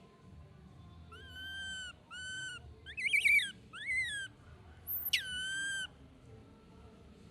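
Baby monkey crying with five short, high-pitched calls in quick succession, the middle ones wavering and the last opening with a sharp downward sweep before holding steady.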